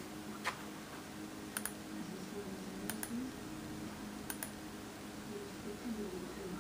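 Clicking at a computer: a handful of sharp clicks, most of them in quick pairs, over a steady low electrical hum.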